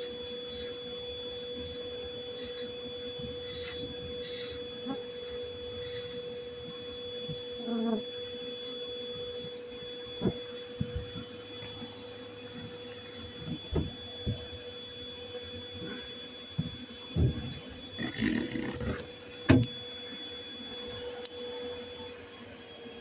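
Everything Bee Vac bee vacuum motor running at a steady pitch, with scattered knocks and thumps in the second half, the loudest a bit past halfway. Near the end its pitch starts to drop as the motor winds down.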